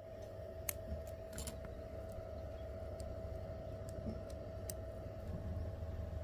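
A few light, sharp clicks of small hard parts being handled, over a steady hum.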